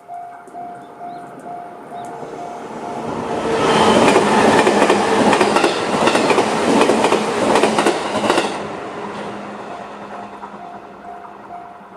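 JR 211 series electric train passing over a level crossing, its wheels clacking rapidly over the rail joints, loudest from about four to eight and a half seconds in. The crossing's electronic JR-standard warning bell rings in even pulses, drowned out as the train passes and heard again near the end.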